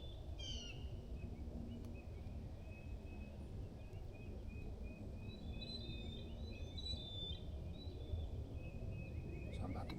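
Small birds chirping and singing, with a busier run of notes past the middle and a quick trill near the end, over a steady low outdoor rumble.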